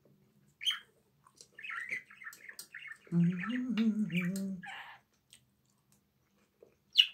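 A small bird chirping and twittering repeatedly. Midway a person hums a low note for about a second and a half, and near the end a metal spoon clicks sharply against the pan.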